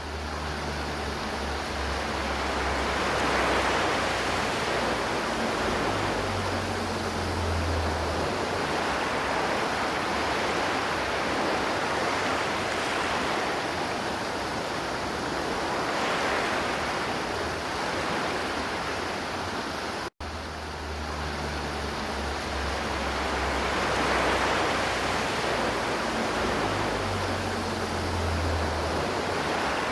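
River water flowing steadily in a continuous rush. The sound cuts out for an instant about twenty seconds in, then carries on with the same pattern as before.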